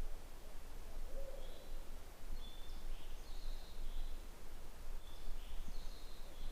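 An owl hoots once about a second in, and small birds sing short high phrases in the middle and near the end, over a steady low background rumble.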